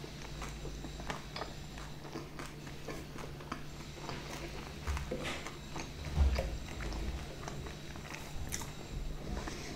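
Close-miked chewing of a mouthful of pizza, with many small wet mouth clicks over a faint steady hum. There are a couple of soft low knocks about five and six seconds in.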